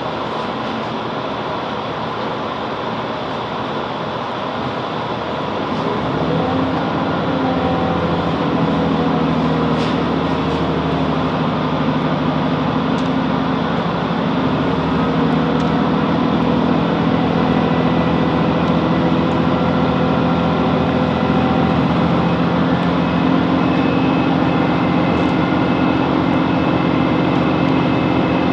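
Class 165 diesel multiple unit heard from inside the carriage while under way: continuous running and rail noise. About six seconds in, a steady underfloor diesel engine note comes in and the sound gets louder, then holds.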